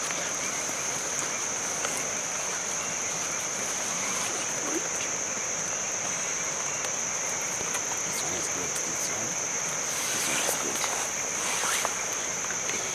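Insects trilling in one steady, unbroken high-pitched tone over a constant background hiss. A louder rush of hiss swells for a couple of seconds near the end.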